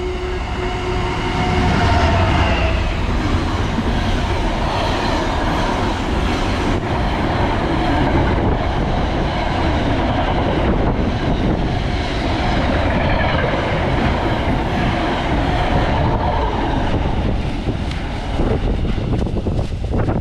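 A train passing through the station at speed without stopping, its wheels clacking steadily over the rail joints. The noise holds steady and then falls away near the end.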